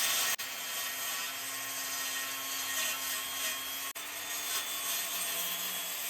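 Sanding the freshly cut wooden edges of the fence: steady rubbing hiss of abrasive on wood, broken by two brief cuts.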